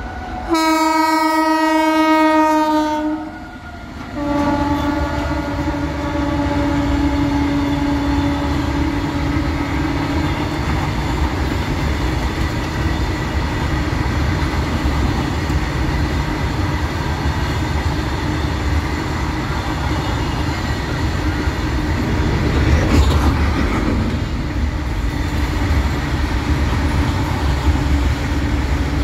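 A WAG-9 electric locomotive's horn sounds two long blasts, the second starting about four seconds in and lasting about six seconds. Then comes the steady rumble and clickety-clack of a long rake of open-top freight wagons rolling past on the rails.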